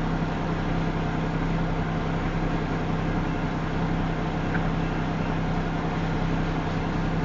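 Long freight train of covered grain hopper cars rolling past at about 24 mph, a steady, unbroken rumble with a low hum running under it.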